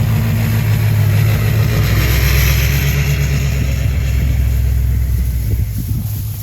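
Engine of a ranch vehicle hauling hay bales, running steadily; its pitch drops about a second and a half in and rises again near the end.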